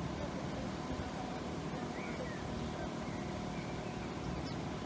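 Road vehicle engines running steadily, a low even rumble with no sharp sounds.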